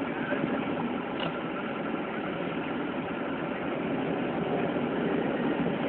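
Vehicle engine and road noise heard from inside the cabin while driving, a steady drone that grows slightly louder near the end.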